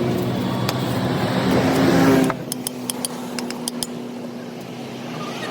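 A motor running with a steady hum; a little over two seconds in the noise drops away, leaving the hum and several sharp clicks.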